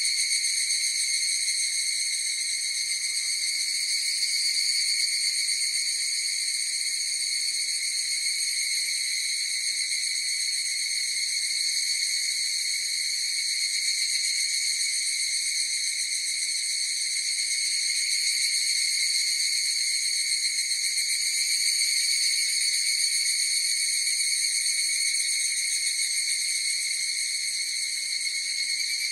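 Higurashi (evening cicadas) calling in chorus: a steady, unbroken high-pitched ringing drone.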